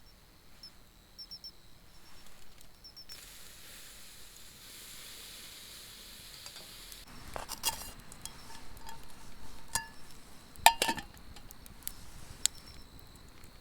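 Several sharp clinks and knocks, as of metal or glass camp gear being handled, the loudest about three-quarters of the way through, after a few seconds of steady hiss. Faint high chirps of insects at the start.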